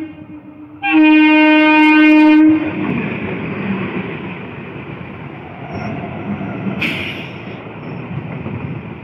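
Electric multiple unit (EMU) local train sounding its horn: the end of a short toot right at the start, then a loud, long blast about a second in lasting about a second and a half. After that comes the steady rumble and clatter of the coaches running past close by, with one brief sharp clank partway through.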